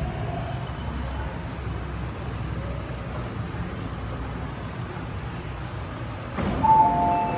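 MTR East Rail Line R-Train electric multiple unit slowing to a stop at a platform, a low steady rumble heard from inside the carriage. Near the end there is a sudden rush of air as the doors open, and a two-tone door chime starts beeping.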